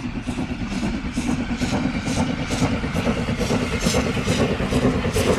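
Steam locomotive working hard, its exhaust chuffing in even beats about two to three a second over a low rumble. The beats quicken slightly and grow louder as it comes closer.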